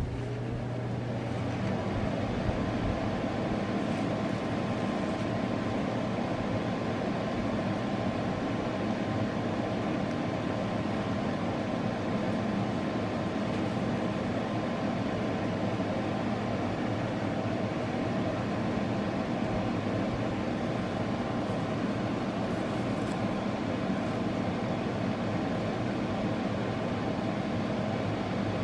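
A steady mechanical hum with a faint steady whine in it, building over the first couple of seconds and then holding even.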